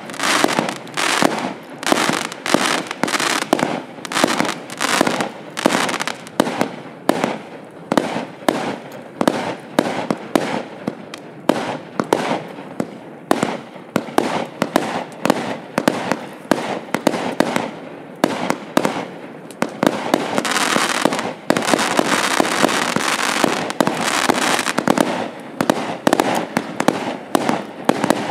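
Hallmark Fireworks 'Full Throttle' multi-shot firework cake firing: a steady run of shots and bursts, about two a second. For several seconds about two-thirds of the way through, the shots run together into a dense, continuous crackle.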